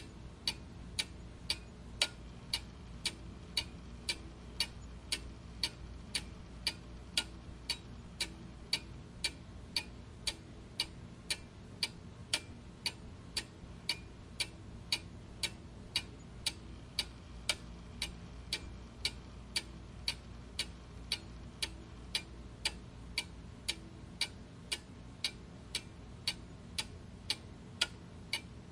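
Mechanical clock ticking steadily, about two evenly spaced ticks a second.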